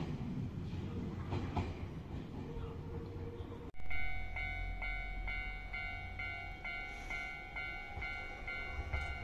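Nankai 1000 series electric train running in, with wheel clicks over rail joints. Then, after a sudden break, a stopped train's low rumble under a bright electronic bell tone that repeats about three times a second over a steady tone.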